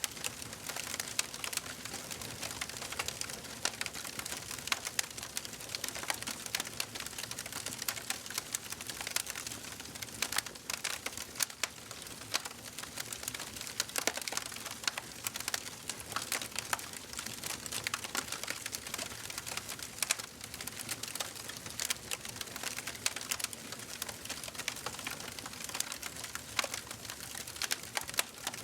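Wood fire crackling and popping steadily in a fireplace: a soft hiss under a dense, irregular run of sharp snaps.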